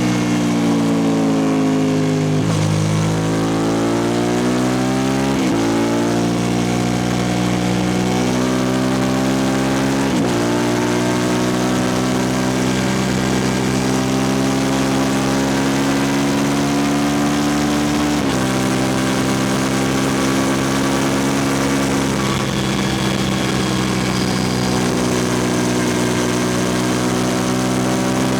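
Suzuki SV650S 645 cc V-twin through a Lextek exhaust with no dB killer, ridden: the engine note falls as it slows, then climbs again with a quick dip in pitch at each of two upshifts, and settles into steady cruising with a small drop in revs about two-thirds through.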